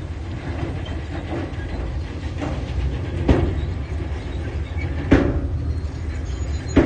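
Diesel engine of a heavy tracked construction machine running steadily under a low rumble, with three sharp clanks about two seconds apart.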